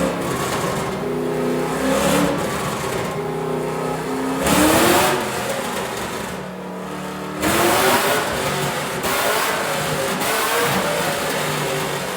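A drift car's freshly built engine revving, its pitch climbing sharply twice, about four and a half and seven and a half seconds in, between steadier running.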